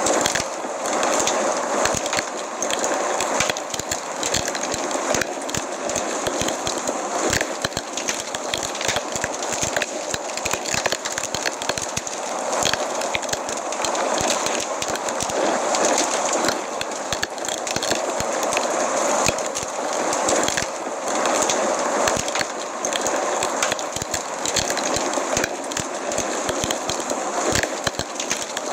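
Fireplace fire crackling, with many small pops and snaps over a steady hiss.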